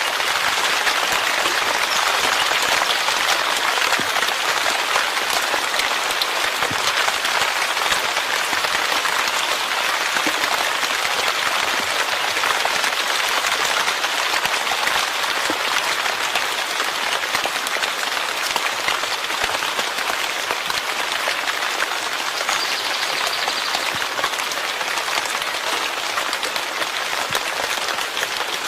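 Steady rain falling, an even wash of dense drops that holds level throughout.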